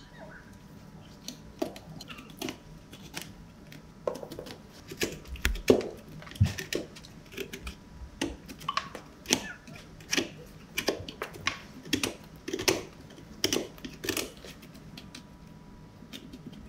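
Farrier's hand tools working a horse's hoof: an irregular run of sharp clicks and snaps, a couple per second, thickest through the middle.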